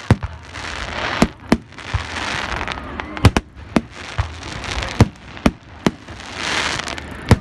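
Fireworks going off: about a dozen sharp bangs at irregular intervals, some in quick pairs, over a crackling hiss that swells and fades between them.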